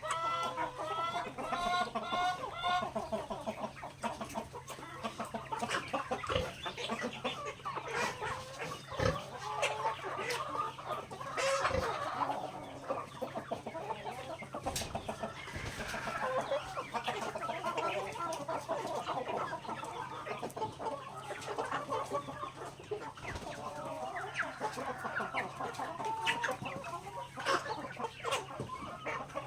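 A flock of native chickens clucking continuously, their calls overlapping, with many short sharp taps of beaks pecking grain among them. A faint steady low hum sits underneath.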